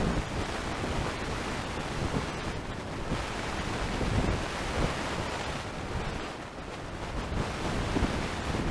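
Wind blowing against the microphone: a steady rush of noise, heaviest in the low end.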